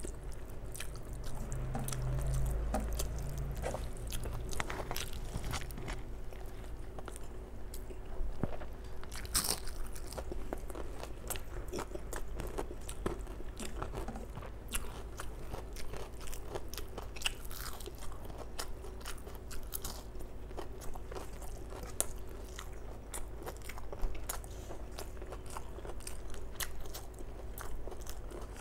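Close-miked chewing and crunching of rice and fried fritters eaten by hand, with many sharp wet mouth clicks and fingers mixing rice and dal on a steel plate.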